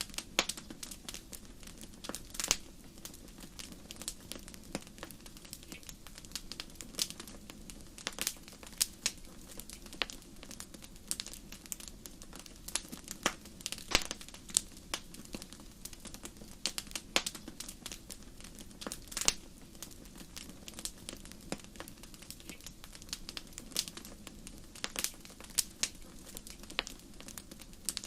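Wood fire in a fireplace crackling: sharp, irregular pops several times a second over a low, steady rumble of flames, with a few louder pops scattered through.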